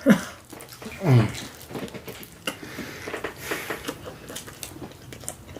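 Close-up chewing and mouth sounds of someone eating, with many small clicks, and two short hums near the start about a second apart.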